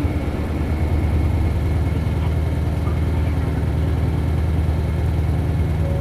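Isuzu 8PE1-S V8 diesel engine of an Isuzu Cubic KC-LV280L bus, heard from inside the bus, running steadily at a constant pitch.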